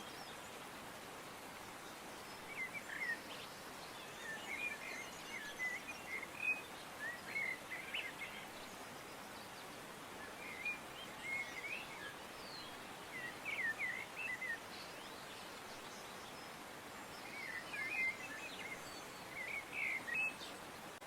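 Songbirds chirping in short runs of quick high notes every few seconds, over a steady background hiss.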